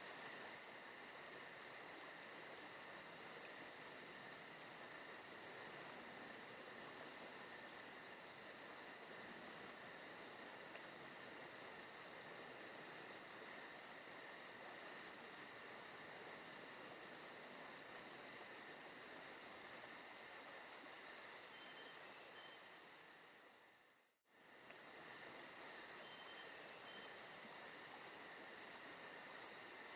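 Faint recorded forest ambience of crickets and other insects chirping steadily in a fast, even pulse, with a continuous high buzz under it. About three quarters of the way through it fades out to almost nothing for a moment and fades back in.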